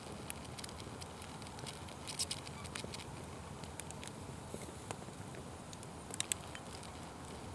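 Wood fire crackling: irregular sharp pops and snaps over the low steady rush of the flames, with a quick cluster of pops about two seconds in and the loudest ones a little after six seconds.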